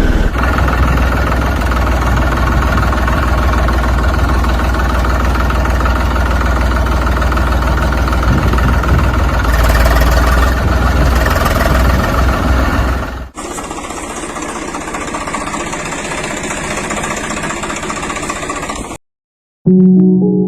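An engine running steadily. About thirteen seconds in, the sound cuts abruptly to a quieter, thinner engine noise, which stops suddenly near the end.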